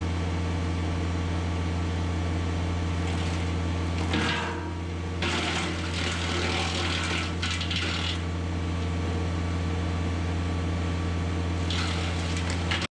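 Kubota BX23s compact tractor's three-cylinder diesel running steadily, driving a Land Pride WC1504 PTO wood chipper. From about four to eight seconds in there is a louder rushing, crackling noise on top of the engine, and a shorter one near the end.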